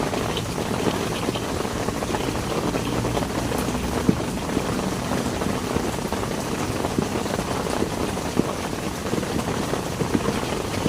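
Heavy rain falling steadily, with many individual drops ticking sharply on a nearby surface.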